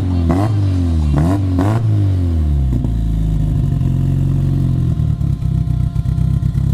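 Nissan S13's turbocharged engine revved three times in quick succession through its new custom TIG-welded exhaust and muffler, then settling back to a steady idle. It runs cleanly on the new exhaust.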